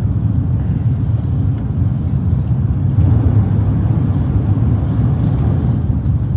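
Steady low rumble of a Shinkansen bullet train heard from inside the passenger carriage while it runs.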